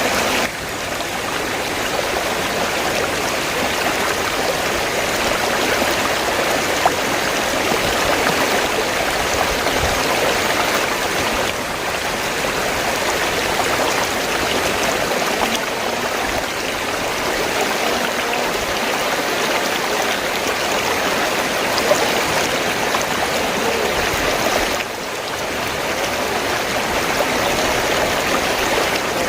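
River water flowing and splashing over rocks, a steady rushing and burbling.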